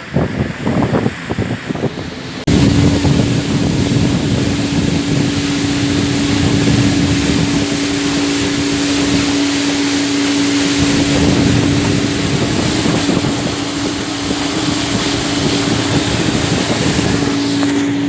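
Motorboat engine running steadily at speed with a constant drone, under heavy rushing wind and water noise. It starts abruptly about two and a half seconds in, after a short stretch of choppy sound.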